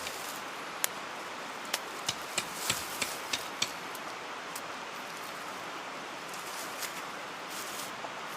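A run of sharp, short clicks or snaps, about seven in a couple of seconds near the start, then a few fainter ones, over a steady hiss.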